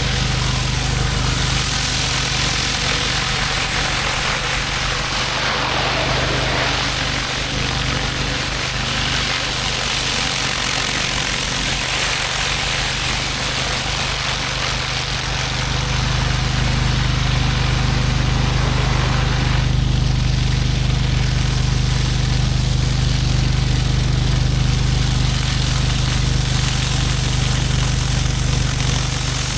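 Pressure washer engine running steadily under load, with the hiss of high-pressure water from a surface cleaner working a concrete driveway.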